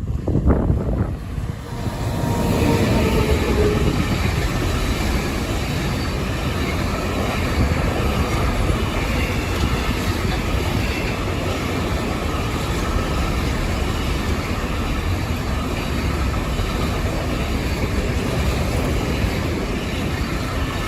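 A train passing close by on the tracks. A few sharp knocks at the start give way, about two seconds in, to a loud, steady rush of wheel and rail noise that keeps up for the rest.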